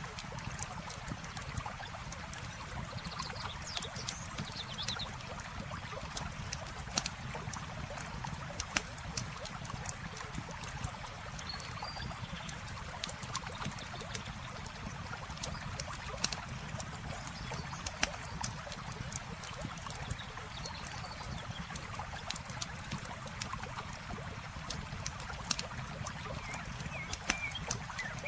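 Campfire crackling with scattered sharp pops over a steady wash of trickling water.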